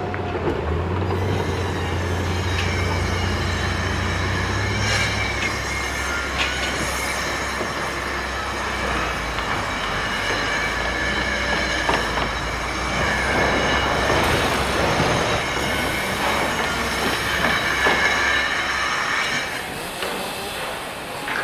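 Heavy vehicle or machine rumbling with a low hum and a high, steady metallic squeal that comes and goes over a continuous clatter. The low hum drops away near the end.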